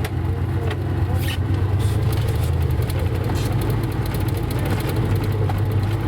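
Suburban's engine running steadily under way in four-wheel drive high, a constant low drone, with scattered light clicks over it.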